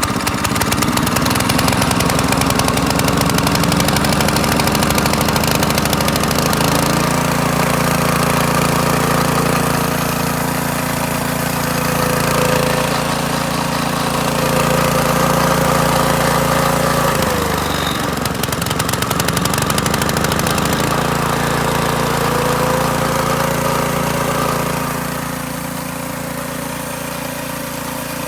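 Predator 212cc single-cylinder four-stroke engine running on its first start. It speeds up over the first several seconds and holds steady, drops off and picks back up about two-thirds of the way through, then settles to a slower, quieter idle near the end.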